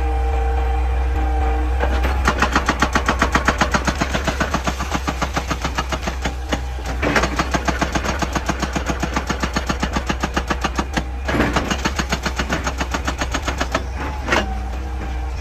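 Excavator-mounted hydraulic rock breaker hammering rock in rapid, regular blows, about six a second, over the excavator's running engine. The hammering starts about two seconds in and pauses briefly three times.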